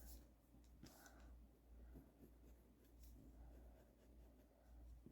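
Near silence with a few faint pencil strokes scratching on tracing paper as a drawing is shaded in.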